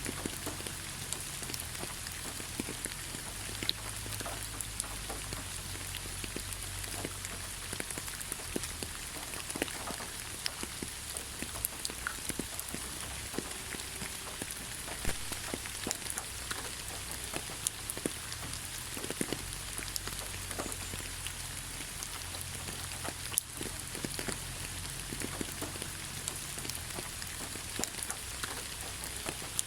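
Steady rain falling on leaves: a constant hiss with many separate drops tapping irregularly.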